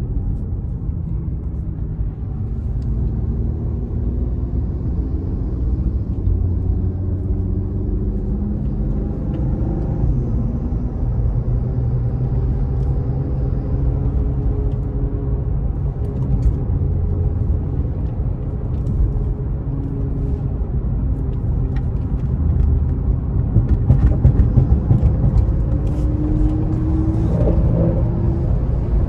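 Infiniti Q50's 3.0-litre twin-turbo V6 under way, its engine note rising and falling again and again as it accelerates and shifts, over a steady road rumble. It is loudest about 24 seconds in.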